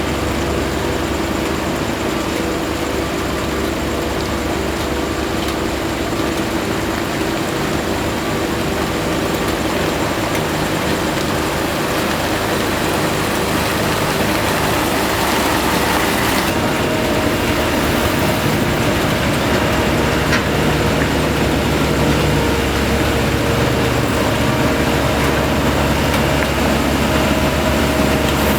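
Heavy diesel road-paving machinery running steadily, a continuous engine drone with a few small shifts in pitch after the middle.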